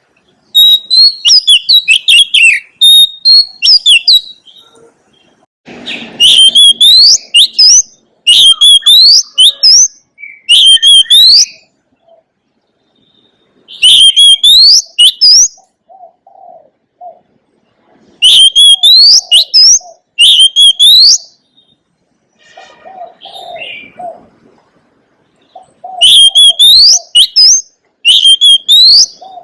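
Oriental magpie-robin singing in loud phrases of about one to two seconds, made of clear whistles and rising sweeps, with short pauses between them. Softer low calls sound in several of the gaps.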